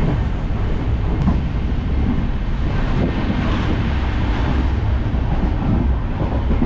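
Steady rumble of a moving passenger train, heard from inside a sleeper coach: the wheels running on the rails.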